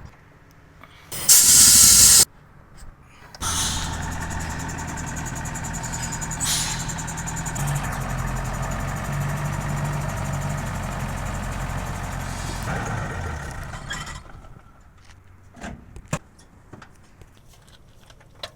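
A loud burst of hiss lasting about a second, then a diesel truck engine running steadily at an even speed for about ten seconds before it dies away, followed by a few light clicks.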